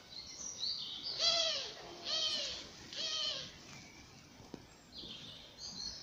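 Three loud, harsh bird calls about a second apart, each roughly half a second long, with a few short high chirps from other birds before and after them.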